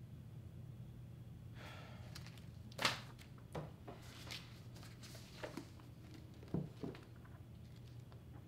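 Faint steady room hum with a handful of scattered short clicks and taps from working at a laptop desk, the loudest about three seconds in.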